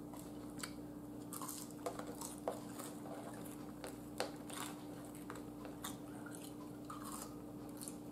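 A person chewing crinkle-cut fries: soft chewing with small crunches and mouth clicks scattered through, the sharpest about two and a half and four seconds in, over a faint steady hum.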